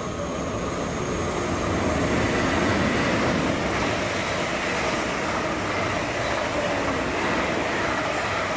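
An electric train running through the station: a continuous rumble of wheels on rail that builds over the first couple of seconds and then holds steady.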